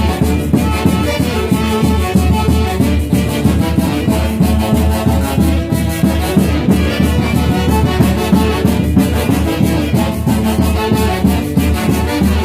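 Band music led by a horn section over a steady, driving beat.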